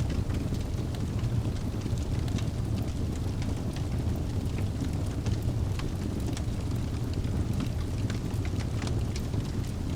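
Wood fire burning in a fireplace: a steady low rumble of the flames with many small, scattered crackles and pops.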